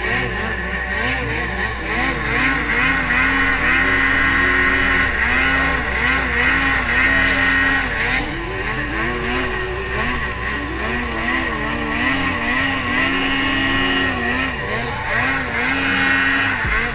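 Ski-Doo Summit 850 snowmobile's two-stroke engine revving up and down over and over while riding, its pitch rising and falling every second or two.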